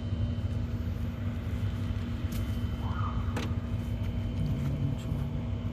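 Steady low rumble with a constant hum, and two sharp clicks about two and a half and three and a half seconds in.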